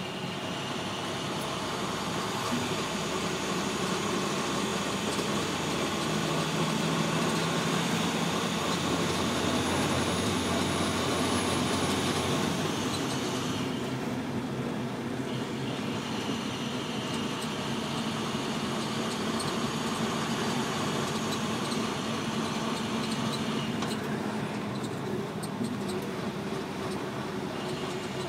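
Car driving along: steady engine and tyre noise.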